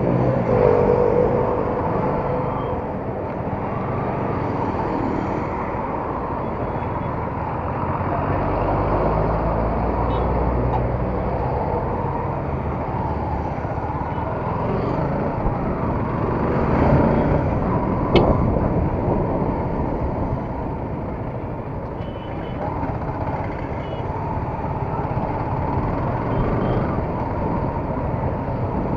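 Yamaha R15 single-cylinder motorcycle engine running on the move amid road traffic noise, steady throughout, with a single sharp click about eighteen seconds in.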